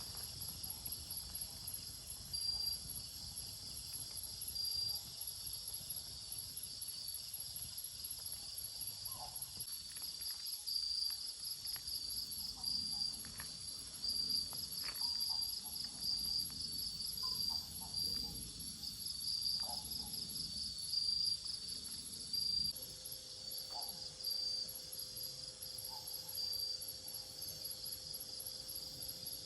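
Forest insects calling: a steady high buzz with a lower, pulsing trill over it, and a few faint scattered clicks.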